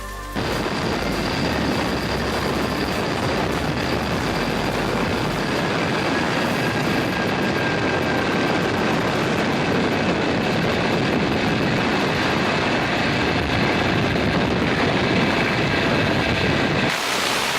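Zipline trolley running fast along the steel cable: a steady rushing with a faint high whine from the pulleys, and wind over the microphone. It starts suddenly about half a second in and drops away near the end.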